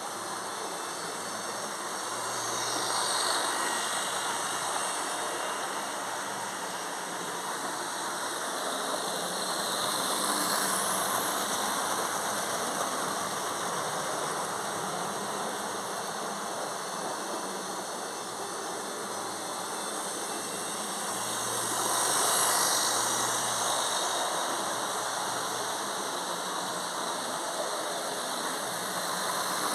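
Model train running round a loft layout: a steady electric-motor hum and wheel rumble on the track, swelling louder three times as the train passes close by.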